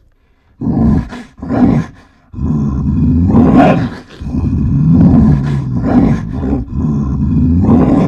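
Bear growling and roaring: two short growls, then a long stretch of growling roars with brief breaks.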